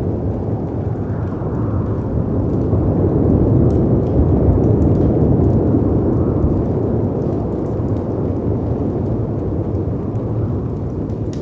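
Layered storm ambience: a deep, steady rush of wind and sea surf that swells somewhat in the middle, with faint fireplace crackles and pops scattered over it.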